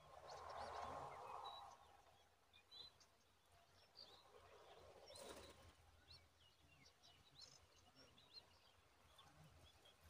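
Faint, scattered short high chirps of small birds, with a soft rustling noise in the first second or so and a brief one again about five seconds in.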